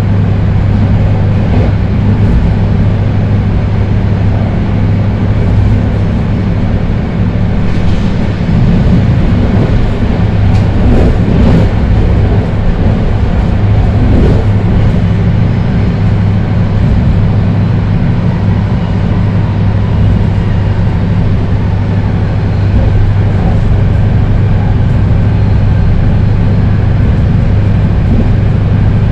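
BART Rohr B2 rapid-transit car running at speed between stations: steady, loud wheel-on-rail rumble, with a few clicks and knocks from the track around the middle.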